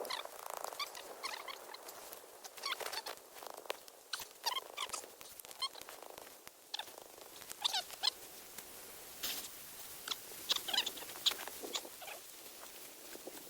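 Wood campfire crackling and popping in short, irregular snaps, some with brief squeaky high notes.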